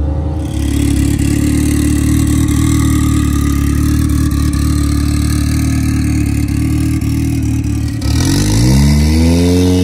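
Drag-racing car engine running loud and steady, then, about eight seconds in, revving up with a quickly rising pitch that levels off high as the car accelerates.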